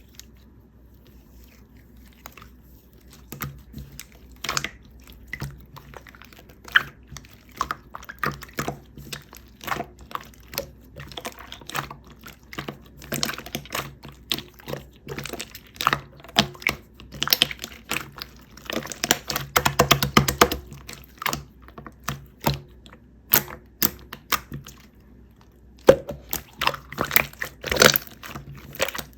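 Irregular run of light clicks and taps from hands and utensils making matcha marshmallow chocolate cookies. A short stretch of denser rustling comes about two-thirds of the way through.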